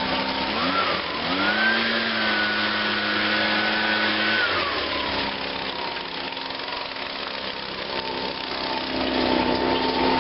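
Echo PB-251 handheld leaf blower's small two-stroke engine idling, then revved up about a second in and held at high speed for about three seconds before dropping back to idle, with air rushing from the blower tube.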